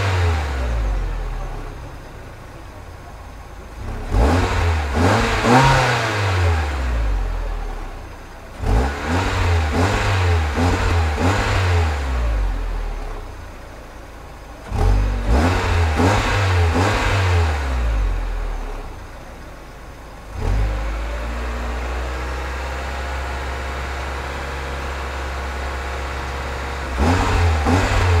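A 2007 Hyundai Tiburon GS's 2.0-litre DOHC four-cylinder engine, revved in several short bursts. Each burst climbs and falls back to idle. Later the engine is held at steady raised revs for several seconds, then blipped again near the end.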